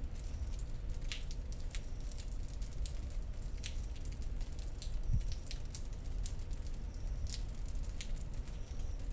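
Thunderstorm rain: many irregular drop ticks close by over a steady low rumble, with one brief low thump about five seconds in.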